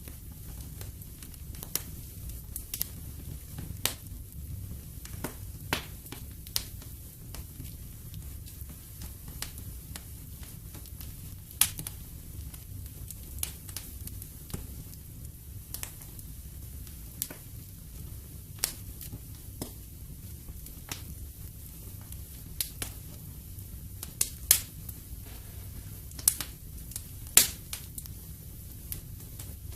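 Wood fire burning in a fireplace, with irregular sharp crackles and pops over a low, steady rumble of flame. A few louder pops stand out, about twelve seconds in and near the end.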